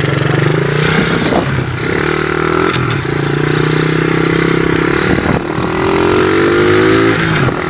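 Dirt bike engine pulling away under throttle. Its note climbs and drops back sharply about four times as it shifts up through the gears.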